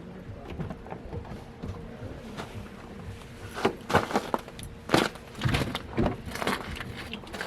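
Footsteps in crampons crunching and clinking on snow and ice, in an uneven run of sharp steps that grows louder about halfway through.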